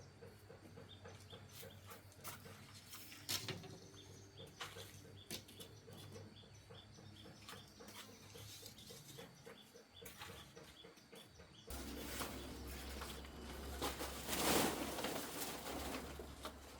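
Birds chirping, over a fast, even ticking. About twelve seconds in, a louder rushing noise comes in, swells and then fades.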